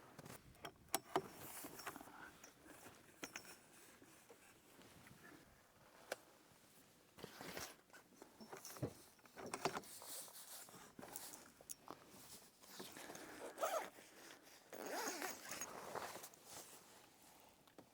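Camping gear being handled: scattered clicks and knocks with stretches of rustling and scraping.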